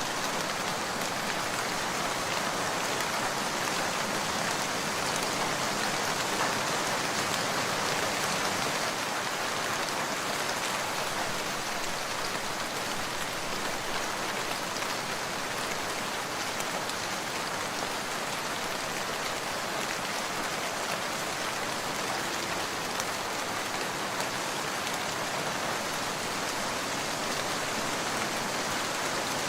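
Steady rain falling as an even hiss, with no breaks.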